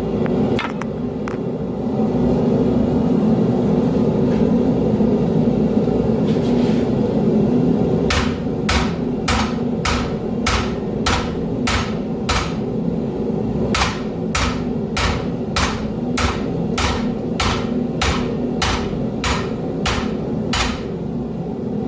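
Forging hammer striking metal on an anvil in a steady rhythm, a little under two blows a second, with a short pause partway through. A few scattered knocks come before the hammering starts, and a steady low rumble runs underneath throughout.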